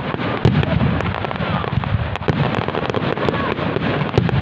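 Fireworks display: a dense, continuous crackling of shells bursting, with many sharp pops and low booms overlapping.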